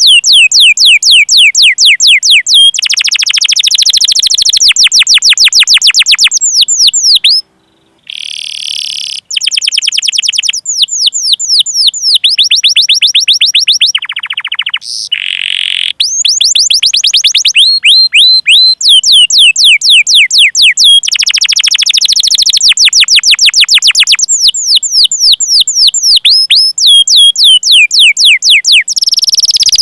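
Domestic canary singing a long, loud song of fast repeated down-slurred whistled notes ('cuit cuit') run together into rolling trills, with a short break about seven seconds in.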